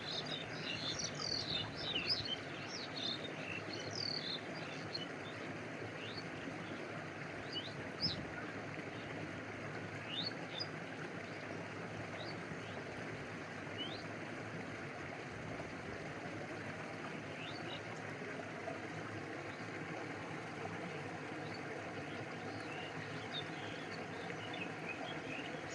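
Stream water flowing steadily, with short high bird chirps over it: a flurry in the first few seconds, then scattered single chirps.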